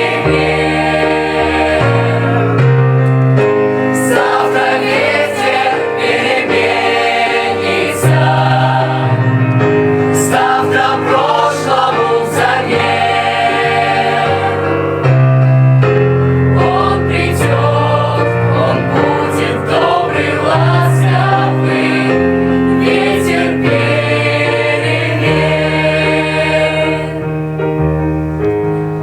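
A vocal group singing in chorus with piano accompaniment, sustained chords over changing bass notes.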